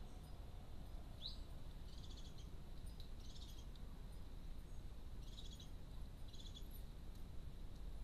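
Faint small-bird calls: a short rising chirp about a second in, then four short buzzy, chirping phrases spread over the next few seconds, over a steady background hiss.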